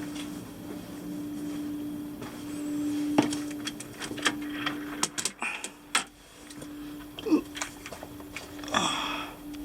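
A steady low hum of the ferry's machinery in the cabin, with a run of sharp clicks and knocks in the middle and a couple of short sliding creaks near the end.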